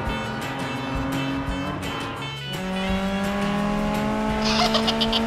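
Cartoon race-car engine sound effects running and slowly revving up, over background music with a steady beat.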